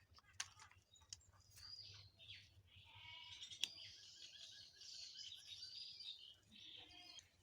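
Faint bird chirping and twittering, many short high calls, with a few sharp clicks.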